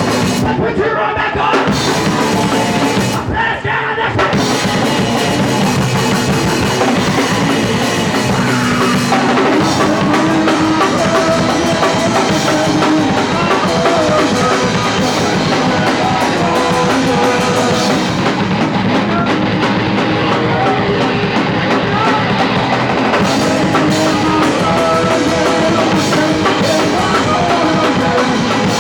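Punk rock band playing live: distorted electric guitar, bass and drum kit, loud and continuous.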